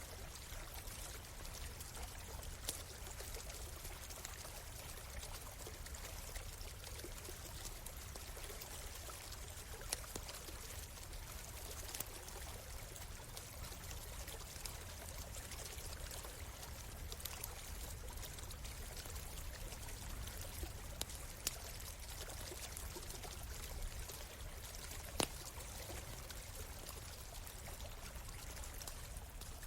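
Stream water running steadily, with a few sharp pops from a crackling campfire scattered through it, one louder pop near the end.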